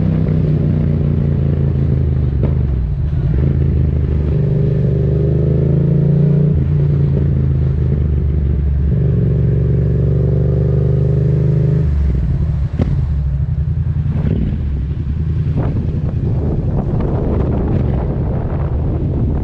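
Yamaha MT-07's parallel-twin engine through a Mivv aftermarket exhaust with the dB killer removed, running at a steady pitch that shifts between throttle settings several times. After about twelve seconds the steady engine note gives way to a rougher, noisier sound as the throttle comes off.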